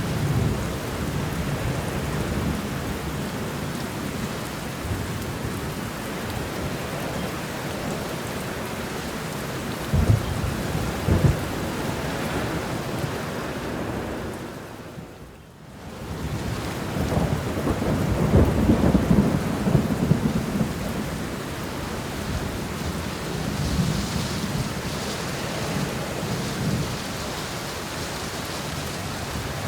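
Steady rainfall with rolling thunder: low rumbles about a third of the way in and a longer, louder one just after the middle. Near the middle the whole sound briefly fades down and comes back.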